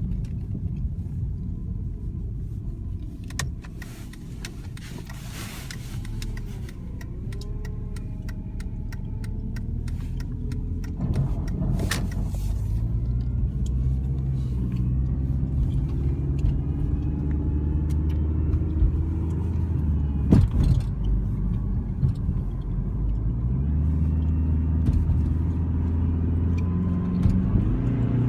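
2003 Dodge Neon SX's 2.0-litre four-cylinder engine running, its pitch stepping up and down with engine speed, with a faint whine above it, the whining noise the owner is chasing. A couple of sharp clicks stand out partway through.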